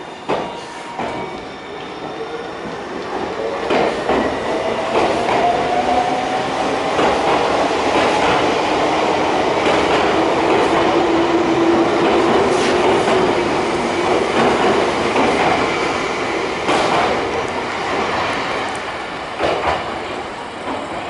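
Semboku 7000-series electric train pulling out and picking up speed past the camera. A rising whine from its motors runs under the clack of wheels over rail joints. The sound grows louder to a peak about halfway through, then eases off.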